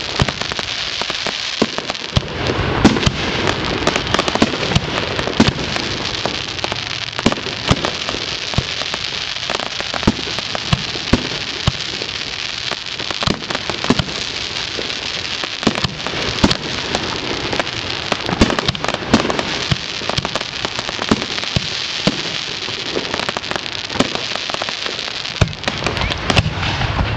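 Fireworks display: a dense, steady crackle of bursting stars with frequent sharp pops and heavier bangs from shells going off overhead.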